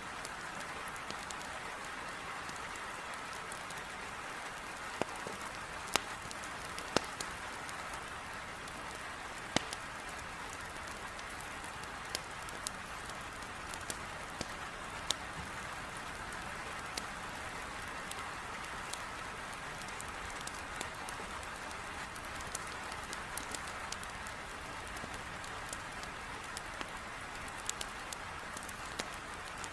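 Heavy rain beating steadily on a window, with a wood fire crackling: scattered sharp pops now and then over the even hiss of the rain.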